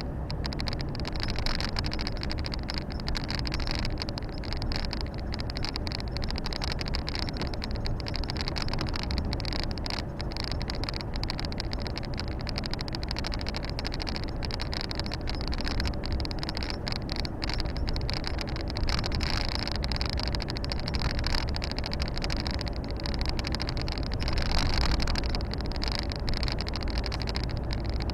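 Volvo FH 460 truck's 13-litre straight-six diesel running steadily while driving, mixed with continuous tyre and road noise, heard from inside the cab.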